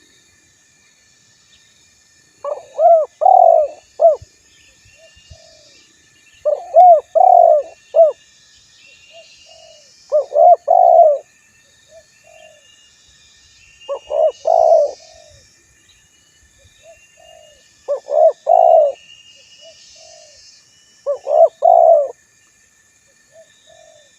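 Spotted dove (tekukur) cooing: six phrases of several notes each, about one every four seconds, with soft single notes in between. Faint high chirping continues steadily in the background.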